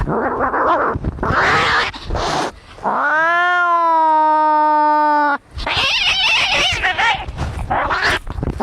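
Cats fighting: harsh, noisy, spitting cries, broken by one long yowl of about two and a half seconds in the middle that rises in pitch and then holds steady before cutting off, followed by more harsh squalling.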